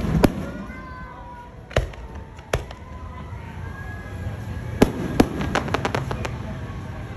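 Aerial fireworks shells bursting overhead: several separate bangs a second or so apart, then two close bangs and a quick run of sharp crackling reports in the second half.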